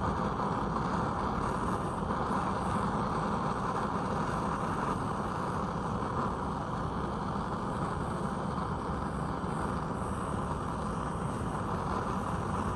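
Steady machine noise that runs without pause or change in pitch.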